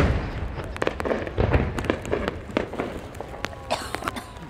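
Aerial fireworks display: the rumble of a large shell's burst dies away at the start, followed by a long run of sharp crackling pops from the bursting stars.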